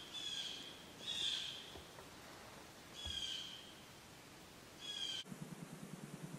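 Short high calls from a bird, each about half a second long and falling slightly in pitch, repeated four times at uneven gaps. About five seconds in the sound cuts abruptly to a steady low pulsing hum.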